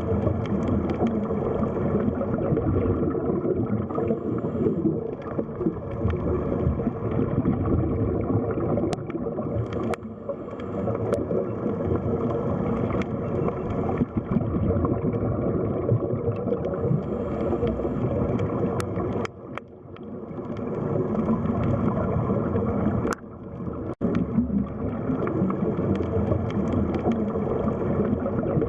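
Underwater sea ambience: a dense, steady churning and gurgling of moving water with a low rumble and a few faint clicks. The sound drops away briefly twice about two-thirds of the way through.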